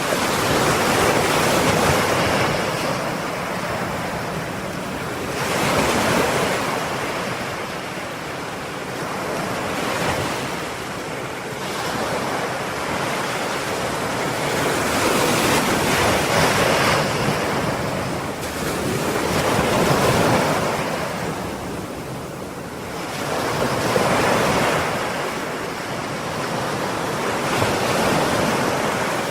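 Ocean waves breaking and washing on a shore, swelling and easing every few seconds in an unbroken rush of surf.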